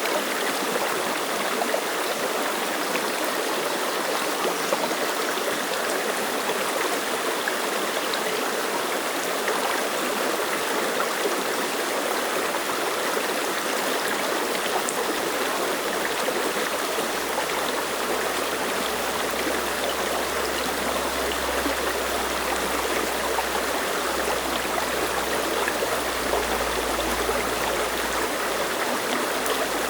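Clear mountain stream running over rocks, a steady rushing and babbling of water.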